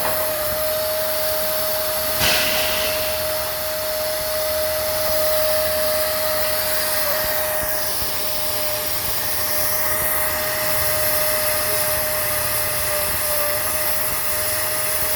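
A70 plasma cutter running: a steady hissing rush with one steady tone under it, and a brief louder burst about two seconds in.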